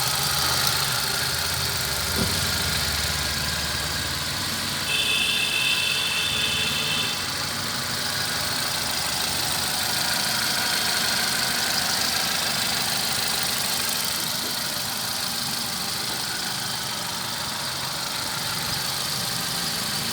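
A Hyundai i10 car's engine runs steadily at idle. About five seconds in, a high whine sounds for about two seconds.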